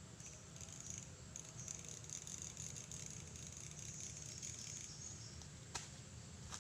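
Insects chirring in a steady, high, flickering drone over a low steady rumble, with one sharp click near the end.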